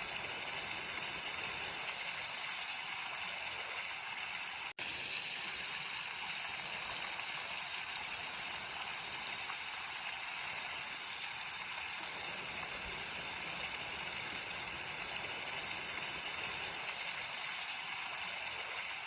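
Mountain stream rushing steadily over rocks. The sound cuts out for an instant about five seconds in.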